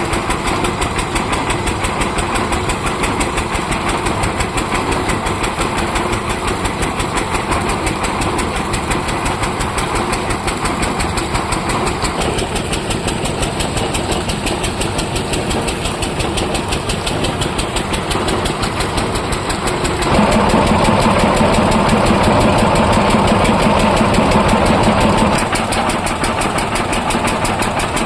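Mini tractor engine powering a borewell drilling machine, running steadily with a fast, even beat. About twenty seconds in it gets louder and harsher for about five seconds, then settles back.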